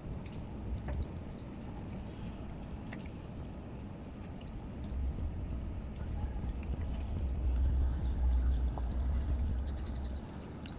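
Aquarium water running steadily with a trickling, pouring sound, plus a low rumble that grows louder from about halfway through and drops away near the end.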